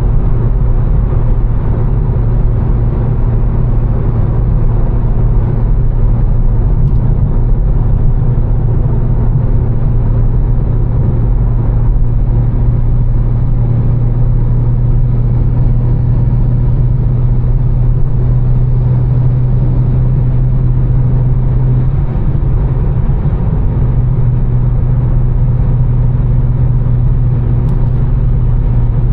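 A tuned BMW M4's twin-turbo straight-six, with catless downpipes and an Fi exhaust, droning steadily at cruise. About three quarters of the way through, the drone wavers briefly, then settles again.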